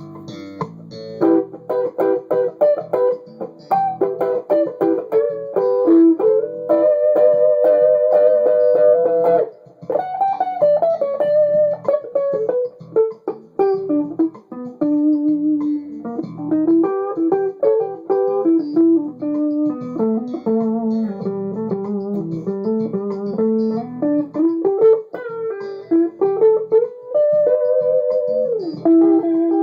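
Custom-rebuilt Fender Duo-Sonic electric guitar played on its neck humbucker pickup: a melodic run of single notes, some held and some sliding in pitch.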